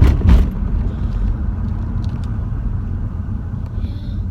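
Car driving, a steady low road rumble heard from inside the cabin, with two sharp thumps in the first half-second.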